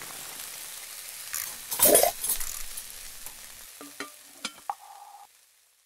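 Kitchen sound effects under a channel intro: food sizzling in a frying pan, a steady hiss that fades, with a louder burst about two seconds in, a few sharp clicks and knocks near the end, and a brief steady tone just before it stops.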